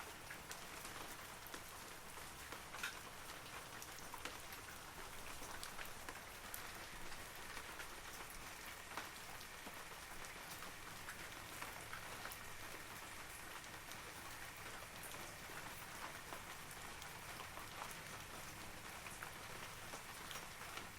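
Steady rain falling on forest trees, a soft even hiss with many separate droplets ticking through it.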